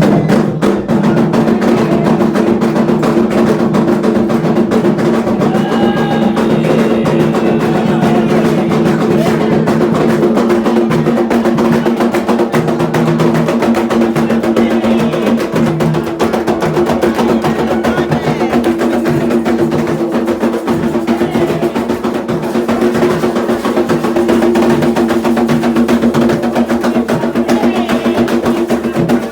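Candomblé ritual drumming on atabaque hand drums, a fast, dense, unbroken rhythm over a steady tone.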